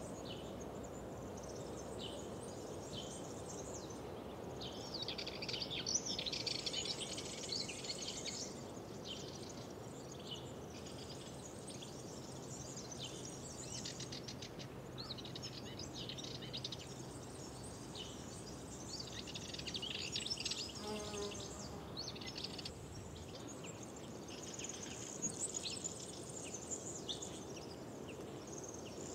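Several songbirds singing and calling in quick, overlapping phrases over a steady low background hiss.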